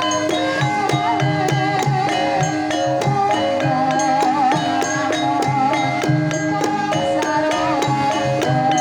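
Javanese gamelan-style music: kendang hand drum strokes keeping a steady rhythm under ringing struck metallophone notes, with a wavering melodic line over the top.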